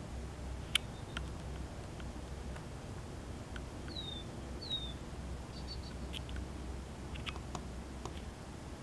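Low steady hum with scattered faint clicks, and two short downward-gliding bird chirps about four seconds in.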